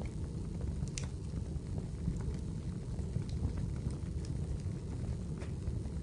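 Wood fire burning in a fireplace: a steady low rumble of flames with scattered crackles and sharp pops, the loudest about a second in.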